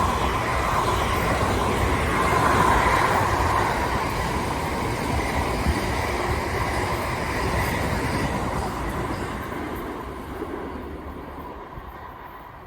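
A passenger train running past on the track, a steady rumble of wheels on rail with a high whine over it, fading away over the last few seconds as it goes off into the distance.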